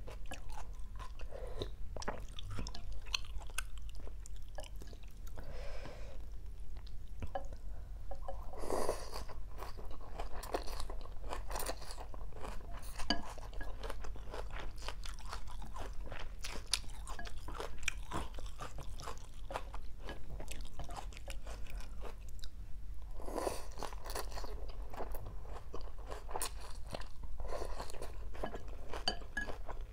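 Close-miked chewing of a mouthful of rice vermicelli, fish cake and raw greens (lettuce, bean sprouts, shaved water spinach), a steady run of small crisp crunches and crackles. There are two louder moments, about nine and twenty-three seconds in.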